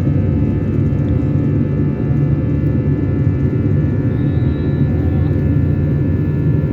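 Airliner's jet engines running at takeoff thrust: a loud, steady low rumble with a constant hum of engine tones over it.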